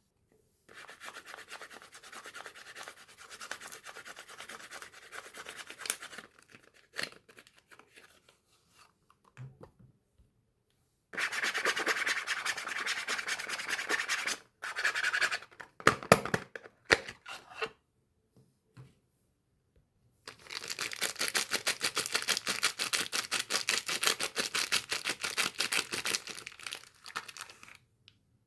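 Soap bars and their wrapping handled up close during unpacking: three stretches of fast rubbing and scratching strokes with pauses between them, and a few sharp clicks near the middle.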